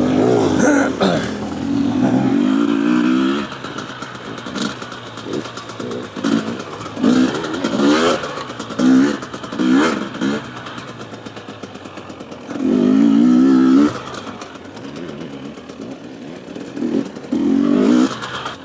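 Husqvarna TE250 two-stroke enduro bike's engine being ridden off-road: the throttle opened and shut again and again, revs rising and falling in short bursts, with longer pulls at the start, about two-thirds through, and near the end.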